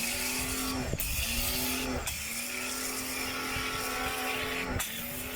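A motor running with a steady hum, cutting out briefly and restarting about a second in, two seconds in and near the end, with a slight dip in pitch at each restart.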